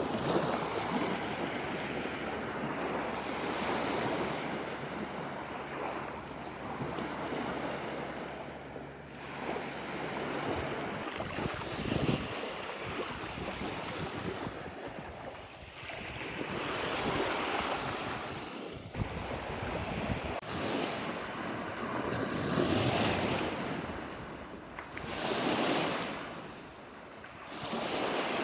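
Small lake waves washing onto a sandy shore, the rush swelling and fading every few seconds, with wind buffeting the microphone.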